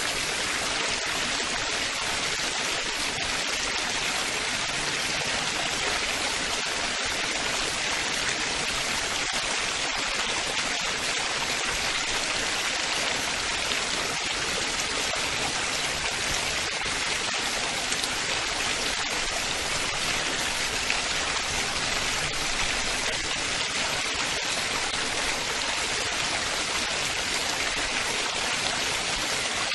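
Running water splashing and babbling steadily, like a small stream or cascade. It makes an even, high-pitched rush with no change.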